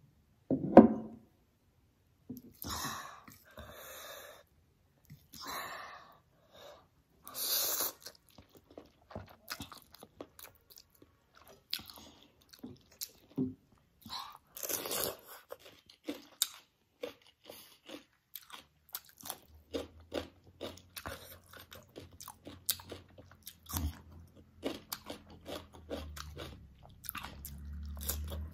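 Close-miked eating sounds: wet chewing, mouth smacks and sharp crunches as spicy instant noodles and crisp cucumber slices are eaten, with several longer hissing mouth sounds in the first several seconds. A low steady hum comes in about two-thirds of the way through.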